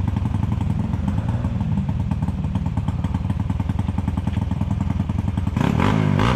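Enduro motorcycle engine running at low revs with a fast, even beat, then revving up and down, louder, near the end.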